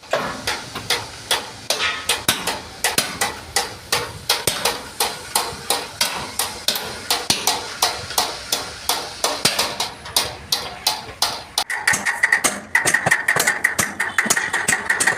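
Hammer blows on a truck cab's sheet-metal panel during dent repair, about three strikes a second. About twelve seconds in, the blows come faster and the metal rings with a steady high tone.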